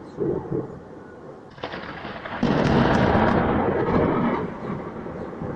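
Thunder: a short low rumble, then a sharp crack about a second and a half in, breaking into a loud rolling rumble that peaks and dies away over the next few seconds.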